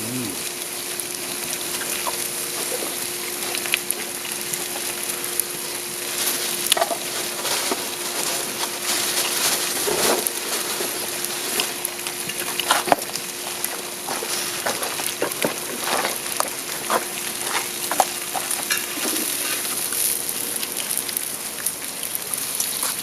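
Pork belly sizzling on a cast-iron cauldron lid: a steady frying hiss, with frequent short clicks and scrapes of utensils against the metal.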